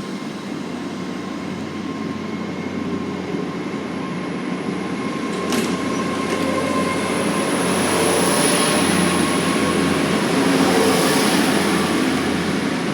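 CrossCountry Voyager diesel multiple unit running along the platform, its running noise growing louder through the middle and peaking in the second half, with a thin steady high whine and a single sharp click about halfway through.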